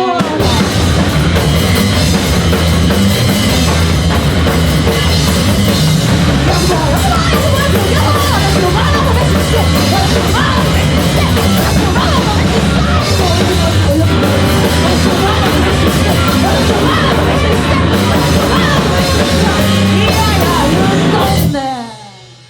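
Japanese punk rock band playing live at full volume, with a drum kit and electric guitars; the song stops abruptly about 21 seconds in and rings out.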